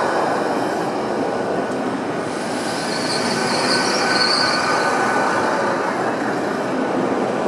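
Great Western Railway Class 800 train moving along the platform with a steady rolling rumble. A high wheel squeal rises about two and a half seconds in and fades a couple of seconds later.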